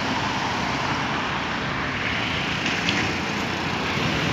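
Steady road traffic noise: the continuous hum of passing cars on a city road.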